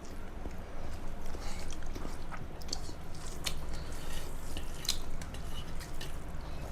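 Close eating sounds: chewing with scattered wet mouth clicks and smacks from a mouthful of rice and curry, over a steady low hum.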